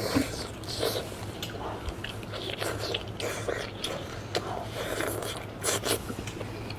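A person biting and chewing tender pan-fried steak close to the microphone, with irregular wet mouth clicks and smacks.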